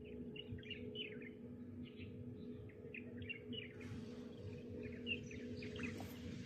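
Small birds chirping, many short high calls in quick succession, over a faint steady low hum; a soft hiss comes in about two-thirds of the way through.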